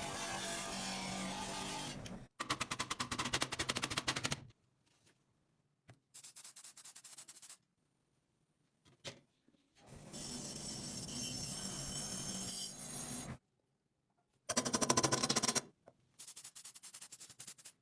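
Repeated bursts of harsh, rapidly rattling mechanical noise from restoration work on a table fan, each one to three seconds long, starting and stopping about six times.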